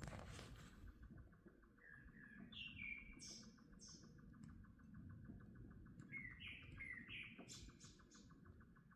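Wild birds singing in short chirping phrases, once about two seconds in and again around six seconds in, over a faint, steady, fast ticking hum.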